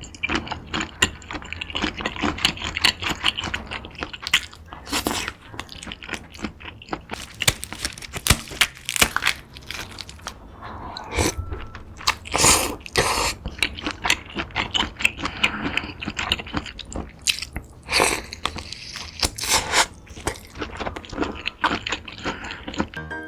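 Close-up eating sounds of a person eating a seafood boil: steady chewing and biting with frequent sharp, irregular crunches and cracks.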